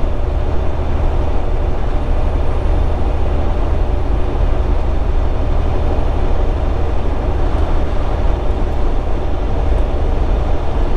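Semi truck cab at highway cruising speed: a steady low drone of engine and road noise.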